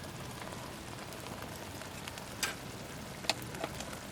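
Food sizzling in a pan: a steady frying hiss with a few sharp pops about two and a half and three and a quarter seconds in.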